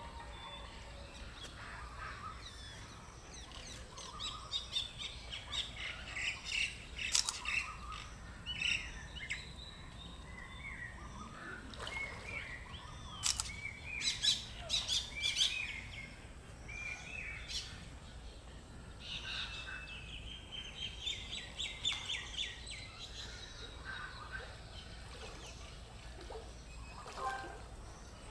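Birds chirping and singing: many short whistled calls rising and falling in pitch, with a fast run of repeated notes about two-thirds of the way through.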